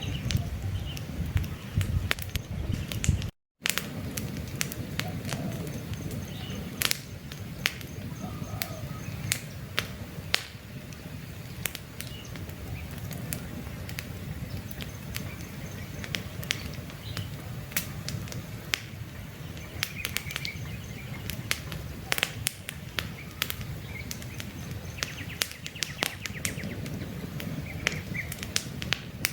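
Wood campfire crackling, with irregular sharp pops over a low steady rush of flames, and faint birds chirping in the background. The sound cuts out completely for a moment about three seconds in.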